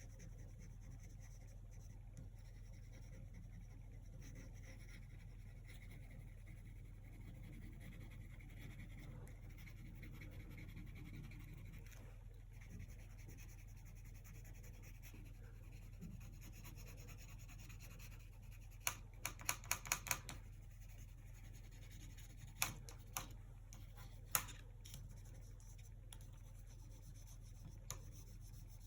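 Acrylic paint being worked with a brush: faint, soft scratchy strokes. About two-thirds of the way through comes a quick run of about six sharp taps, then a few single taps.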